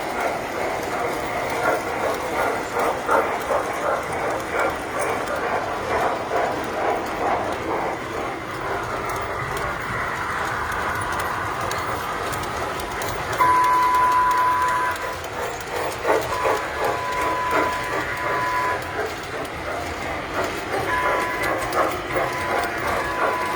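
Tinplate toy trains running on metal track with a steady clattering rattle. About halfway through, a train whistle sounds three times, the first blast the loudest.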